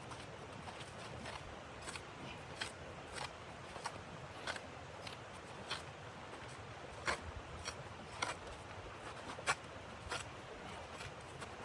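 Footsteps crunching in snow at an even walking pace, about one or two crunches a second, over a steady hiss of wind.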